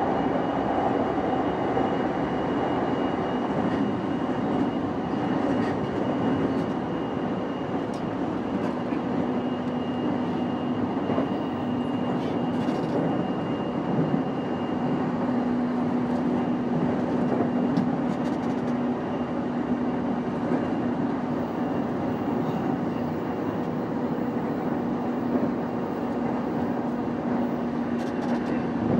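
JR East E233-5000 series electric train running at steady speed: a continuous rumble of wheels and traction motors, with a steady hum that grows stronger about a third of the way in and a few faint clicks from the track.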